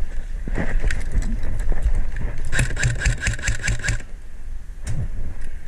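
An airsoft electric gun firing a rapid burst of about a dozen shots near the middle, over a steady low rumble of movement and wind on the microphone.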